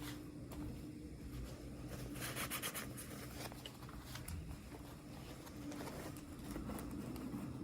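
Faint handling of small toy packaging: light taps and rustles, with a quick run of ticks a little over two seconds in, over a steady low hum.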